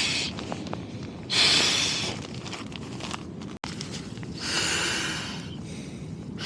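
Inflatable camping gear being blown up by mouth: two long, hissing breaths pushed into the valve, one about a second in and one past the middle, over a low steady rustle of background noise.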